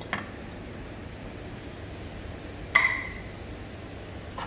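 Onion slices and green capsicum sizzling gently in melted butter in a black wok, stirred with a steel ladle. The ladle strikes the pan once with a sharp, briefly ringing clink about three seconds in, with lighter taps near the start and end.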